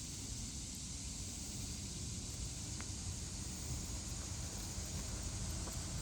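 Steady outdoor background noise: a low rumble with an even high hiss, and a faint click about three seconds in.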